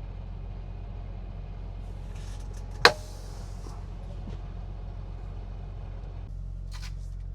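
Semi truck's engine idling steadily, a low even hum heard from inside the cab while the truck sits stopped in traffic. A single sharp click or knock about three seconds in.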